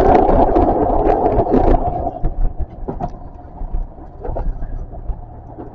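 An oncoming metro train passes close on the adjacent track: a loud rushing clatter of its wheels on the rails for the first two seconds or so. Then the own train's wheels run on quietly over the rails, with scattered clicks.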